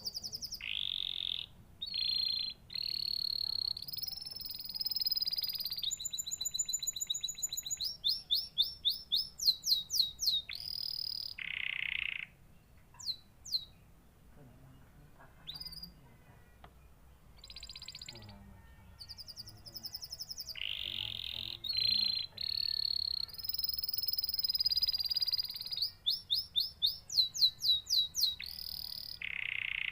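Domestic canary singing: long phrases of fast trills and held high whistled notes. It goes quiet for several seconds in the middle, with only a few scattered notes, then sings again.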